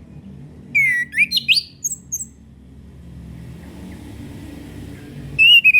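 Chestnut-capped thrush (anis kembang) singing: a quick phrase of clear, sliding whistled notes about a second in, and another short phrase near the end, over a faint low hum.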